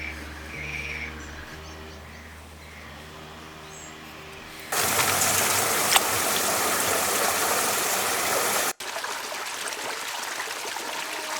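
Running water, a steady rushing flow that starts abruptly about five seconds in, drops off suddenly near nine seconds and goes on more quietly. Soft, sustained background music fills the first few seconds.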